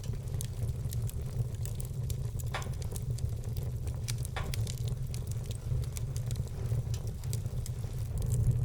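Wood fire in a fireplace crackling, with many small sharp snaps and two louder pops about two and a half and four and a half seconds in, over a steady low rumble.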